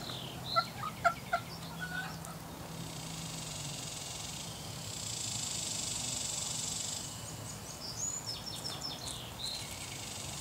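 Poultry calling in the background: bursts of short, repeated calls near the start and again near the end, with a steady hiss in between.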